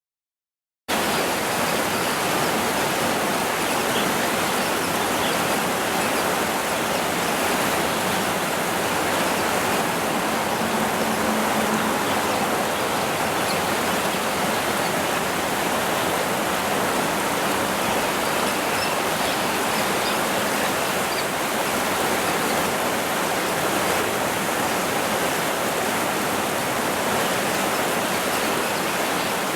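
Steady rush of flowing river water, starting about a second in and holding even throughout.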